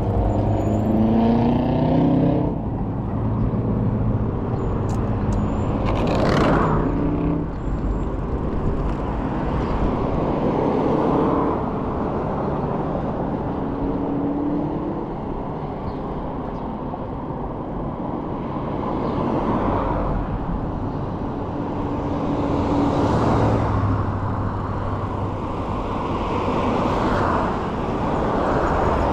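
Street traffic passing close by, with several cars swelling up and fading away over a steady low rumble. The loudest pass comes about six seconds in.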